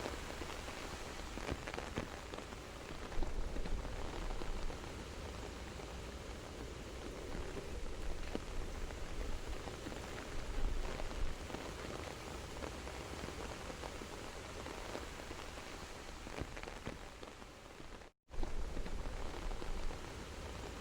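Soft, steady rain falling: a continuous hiss with scattered drop patters. It drops out to silence for a split second near the end, then resumes.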